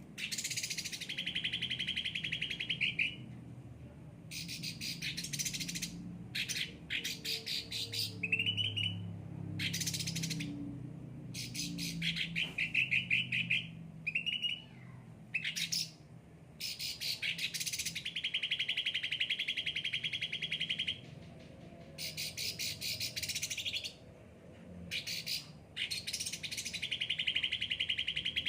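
An 'ocean green' songbird (a yellow-headed leafbird) singing loudly and continuously. Its song is made of fast chattering trills, some held for a few seconds, with short rising whistles between phrases and brief pauses.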